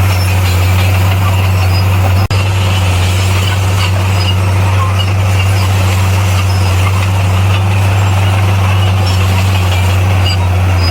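Bulldozer's diesel engine running steadily with a deep, even hum, briefly cutting out for a split second about two seconds in.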